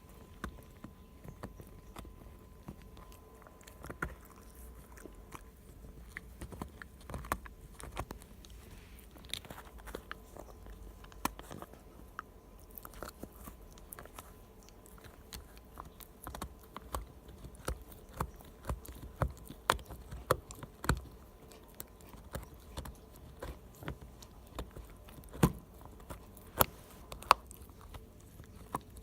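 A Shiba Inu gnawing and crunching a dried cow hoof chew: irregular sharp cracks and crunches between quieter gnawing, coming more often and louder in the second half.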